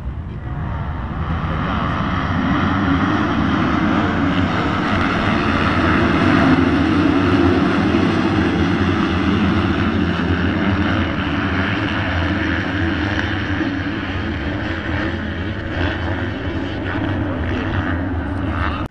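A pack of motocross bikes running together at high revs, a dense mass of engine noise that swells over the first few seconds and then slowly eases.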